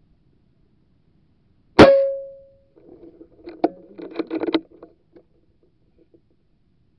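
A single sharp air-rifle shot about two seconds in, with a short ringing tone fading after it, followed by a second or two of quieter rattling clicks and knocks.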